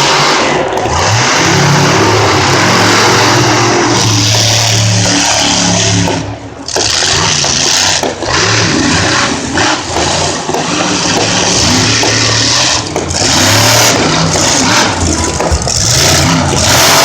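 Monster truck engine revving loud, its pitch rising and falling, with a brief dip about six seconds in.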